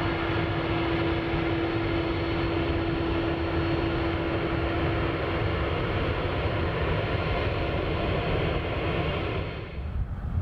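Boeing 767 jet engines running, a steady wide rush of noise with a steady hum that fades about halfway through. Near the end the higher part of the noise drops away abruptly, leaving a low rumble.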